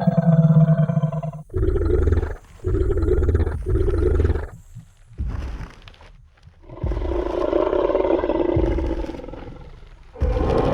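Designed Tyrannosaurus rex roar sound effect. A deep roar tails off in the first second and a half, followed by three short growls in quick succession and a lull with a couple of dull low thumps. Then comes one long roar that fades out, and a new roar starts just before the end.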